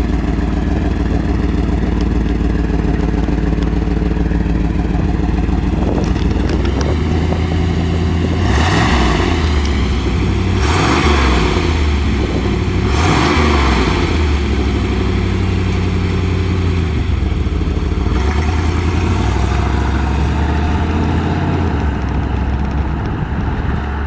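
1992 Pontiac Firebird's 5.0-litre 305 V8 running steadily, then revved up and back down three times in quick succession about a third of the way in before settling again.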